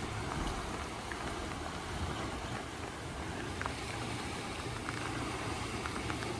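Steady rushing of sea swell and wind at a blowhole, with light rain pattering in scattered small ticks.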